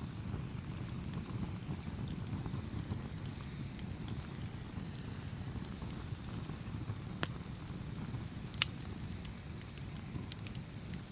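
Campfire burning with a steady low rumble and scattered crackles from the burning wood, with a sharp pop about seven seconds in and a louder one near the end.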